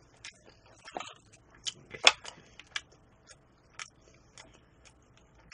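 Close-miked chewing: a scattered series of short sharp clicks and smacks from the mouth while eating, the loudest about two seconds in.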